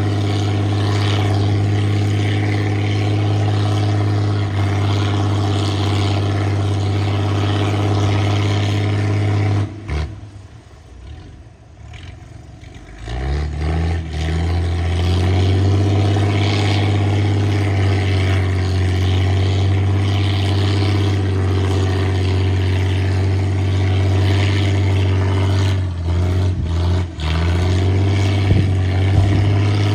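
Engine of a sludge-dredging boat on a shrimp pond, running steadily at an even pitch. It breaks off for about three seconds partway through, then starts up and runs steadily again.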